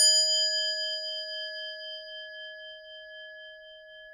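A single struck metal chime, like a bell or singing bowl, ringing on with a long, slowly fading tone.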